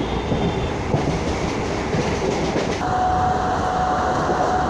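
Suburban electric local train running at speed, heard from a window seat inside the carriage: a steady rumble and rattle of the wheels on the track. About three seconds in, a thin steady tone joins it.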